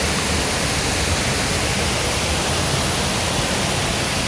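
Steady rushing water of a mountain stream, an even hiss with no change.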